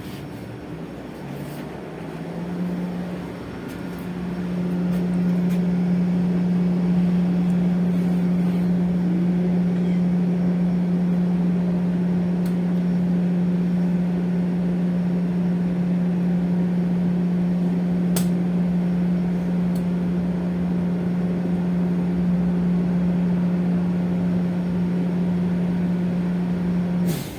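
Electric bus's onboard machinery running with a steady low hum, which starts with a short rise in pitch about two seconds in and cuts off suddenly near the end.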